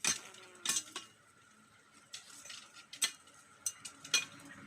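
A blade chopping into a wooden branch: about five sharp, irregular strikes, two of them close together near the start.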